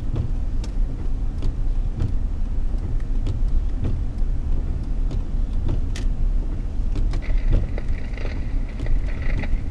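Steady low rumble of a car driving on a snow-covered road, heard from inside the cabin, with scattered light clicks and knocks.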